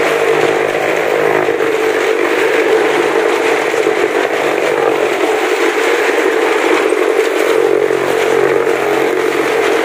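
Small car's engine running hard at a steady, unchanging pitch as the car circles the vertical wooden wall of a well-of-death drum.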